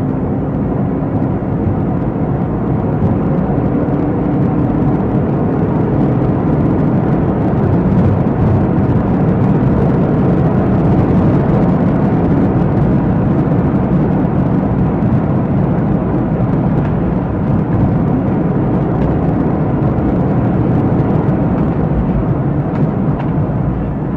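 Car driving at speed: engine and road noise as a steady rush that swells slightly in the middle.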